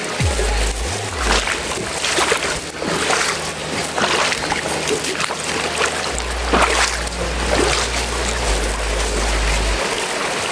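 Water splashing and sloshing in irregular surges as legs wade through a rocky river, over a low rumble.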